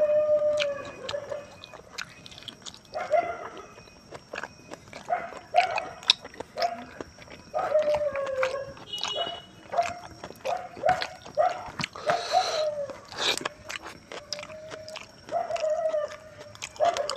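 Close-miked eating: wet chewing and mouth clicks of a person eating pork rib curry with rice by hand. A short falling tone recurs about ten times.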